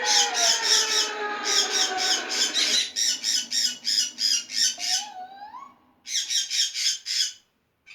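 Birds squawking in rapid runs of short, harsh calls, about four or five a second, with a brief break and a rising whistled call about two thirds of the way through, then stopping shortly before the end. A lower sliding tone sounds under the calls during the first three seconds.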